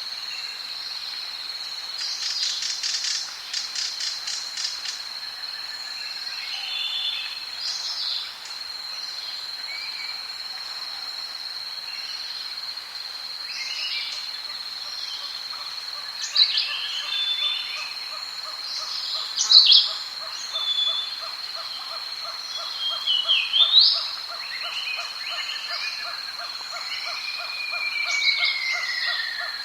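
Tropical rainforest soundscape: a steady high insect drone throughout, with scattered bird calls and squawks, the loudest in the second half, and a falling whistle near the end. A rapid even pulsing call of a frog or insect runs from about halfway on.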